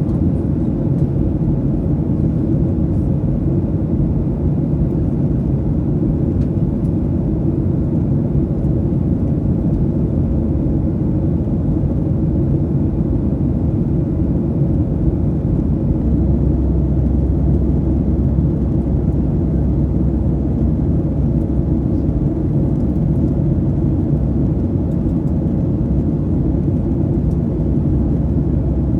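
Steady low rumble of a vehicle in motion, with the deepest part growing stronger about halfway through.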